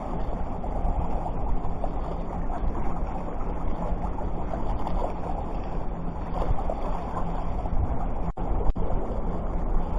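Steady wind noise on the microphone over sea water, with a low hum underneath. The sound cuts out for an instant twice near the end.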